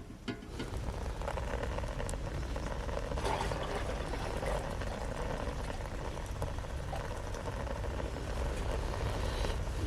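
Steady bubbling hiss of food cooking over heat, starting about half a second in, with a few light clicks.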